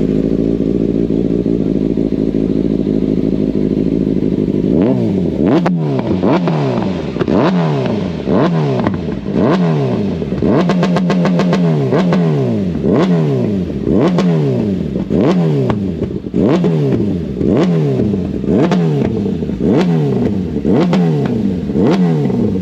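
Kawasaki ZX6R inline-four sport bike with a Two Brothers aftermarket exhaust idling, then revved over and over in quick throttle blips, each rising sharply and dropping back, about one to two a second, with a short steadier stretch around the middle.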